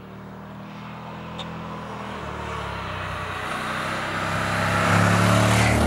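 Suzuki V-Strom 1050 motorcycle's V-twin engine running as the bike approaches, growing steadily louder and loudest near the end.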